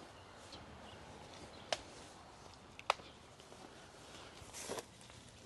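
Faint footsteps and rustling, with two sharp clicks about a second apart.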